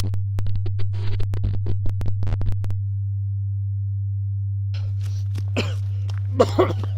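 A steady low electronic hum, a glitch-distortion effect, with crackling clicks over the first couple of seconds. After a stretch of hum alone, rustling crackles return about five seconds in.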